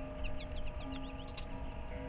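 A small wild bird calling a quick run of about ten short, high, falling notes in the first second. Soft background music with held notes plays underneath.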